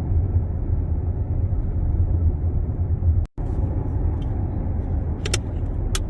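Steady low road and tyre rumble heard from inside the cabin of a Tesla Model X while driving. The rumble cuts out for a split second about a third of the way in. Two short, faint clicks come near the end.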